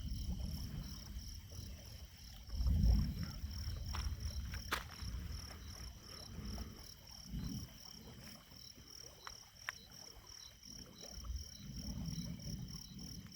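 Night insects, crickets, chirping in an even, rapidly pulsing high trill that runs steadily, with a few low rumbling swells and a couple of sharp clicks underneath.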